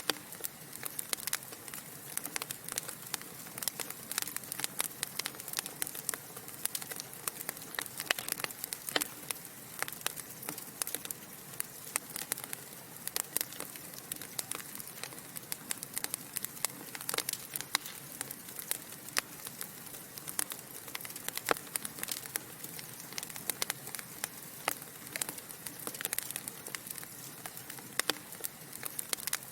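Wood logs burning in a fireplace, crackling steadily: many irregular small pops and snaps over a soft hiss.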